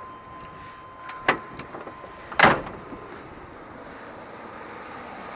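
A van door being handled and shut: a steady tone stops with a knock just over a second in, then one loud bang about two and a half seconds in.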